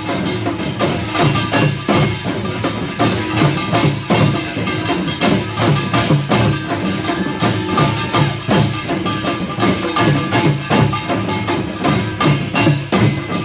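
Korean pungmul percussion ensemble of drums and gongs playing a fast, dense, steady rhythm, the strikes coming several times a second with metallic ringing over them.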